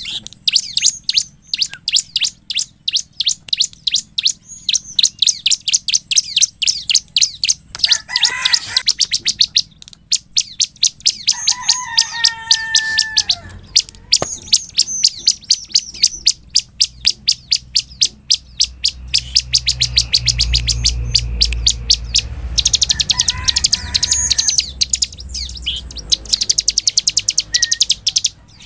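Caged bar-winged prinia (ciblek) singing: long runs of rapid, sharp, high chirps, several a second, in full song. A few lower, drawn-out calls break in between the runs.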